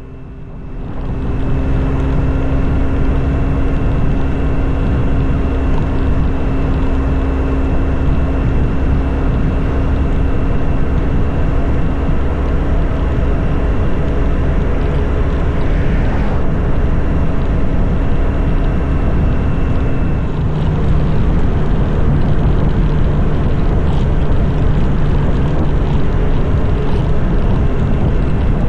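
Motorcycle running at steady cruising speed with wind rushing past, the engine's hum holding steady. The engine note changes about twenty seconds in.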